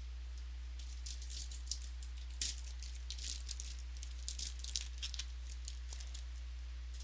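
Trading cards being flipped through by hand: a run of quick, irregular flicks and slides of card stock, over a steady low electrical hum.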